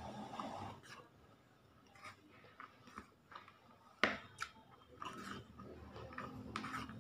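Chewing a mouthful of rice mixed with soy sauce and cooking oil, with scattered short wet clicks, the sharpest about four seconds in.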